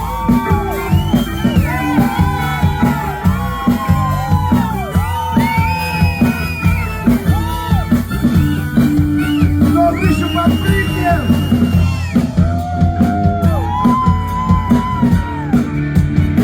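Live rock band playing an instrumental break between verses: a melodic lead line with held, sliding notes over bass and a steady drum beat.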